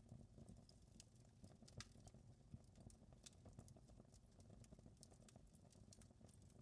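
Faint crackling of a wood fire in a fireplace: irregular snaps and pops over a low, steady rumble.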